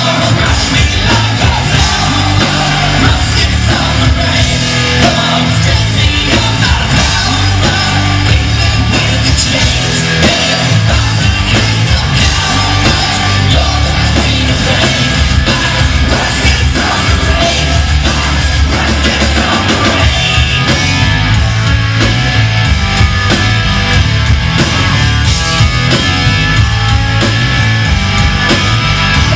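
Live punk rock band playing loud, with a sung and yelled lead vocal over the band.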